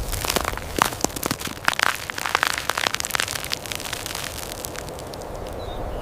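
Wood fire crackling: a dense run of sharp pops and snaps over a steady hiss, the pops thinning out after about four seconds.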